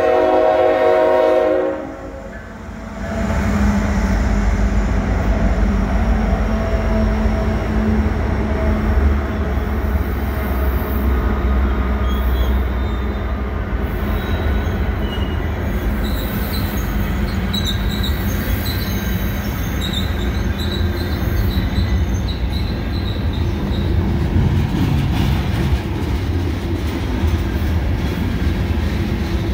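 Nathan K5HL five-chime horn on a Union Pacific GE Evolution Series diesel locomotive sounding a chord that cuts off about two seconds in. The locomotive's diesel engine then runs past, followed by loaded covered hopper cars rolling over the crossing with steady wheel noise and a few faint high wheel squeals midway.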